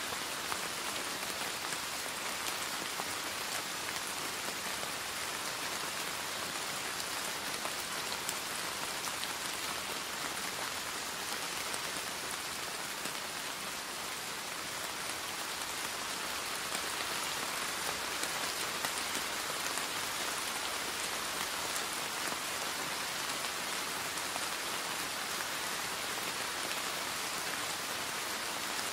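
Steady rain falling on leaves and wet pavement, an even hiss dotted with the faint ticks of single drops.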